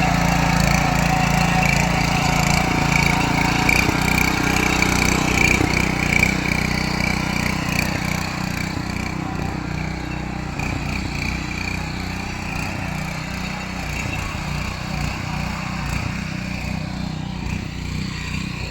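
Rato 7.5 hp engine running steadily, easing slightly about six seconds in.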